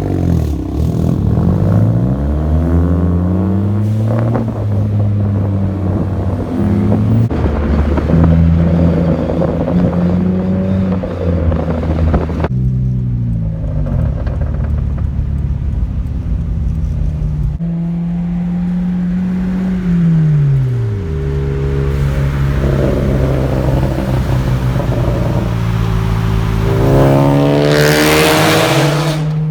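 Car engines idling and being revved, the engine note sweeping up and falling back several times with abrupt changes between stretches, ending in a hard rev climbing sharply near the end.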